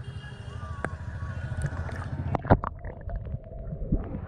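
Muffled low rumbling noise on a handheld camera's microphone, with a loud knock about two and a half seconds in followed by a few lighter clicks, after which the sound turns duller.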